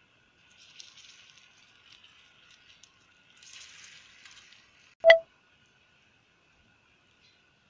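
Beef shami kababs shallow-frying in oil on an iron tawa, with a faint sizzle and crackle in two stretches as the patties are turned. About five seconds in, one sharp metallic clink rings briefly and is the loudest sound.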